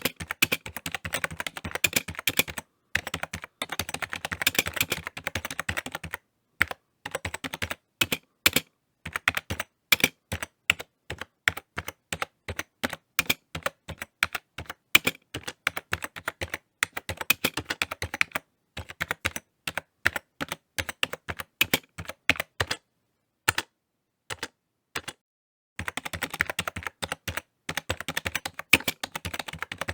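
Typing on a computer keyboard: fast runs of key clicks broken by short pauses, with a longer pause of a couple of seconds before a quick burst of typing near the end.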